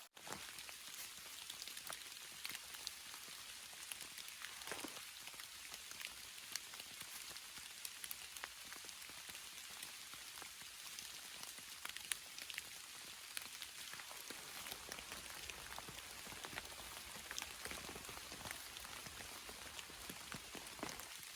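Steady rain falling, an even hiss broken by many separate drops ticking and tapping.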